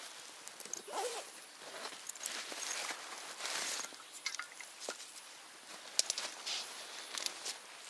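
Footsteps and rustling: irregular scuffing on the ground, with a sharp snap about six seconds in.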